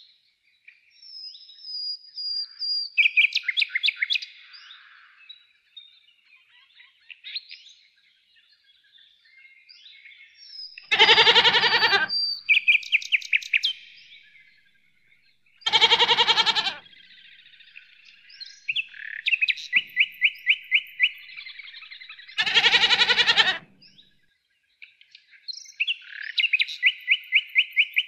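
Songbirds singing, with repeated fast trills of short, evenly spaced notes. Three times, about five seconds apart, a loud wavering animal call lasting about a second sounds over them.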